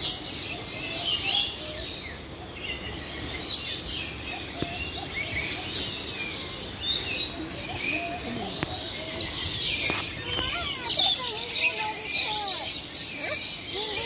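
Many birds chirping and calling together in a steady chorus of short, high chirps, with lower, curving calls joining in during the second half.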